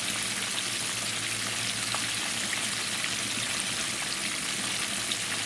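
Breaded carp pieces frying in hot oil in a skillet: a steady sizzle with small crackles.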